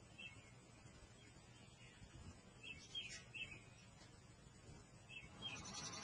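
Faint, short, high bird chirps in scattered clusters: one near the start, several around the middle and a few more near the end, over a quiet background.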